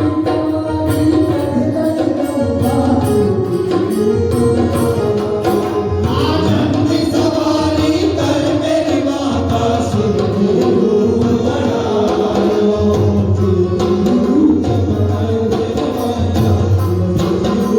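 Devotional bhajan: a voice sings a gliding melody over instruments and a steady percussion beat.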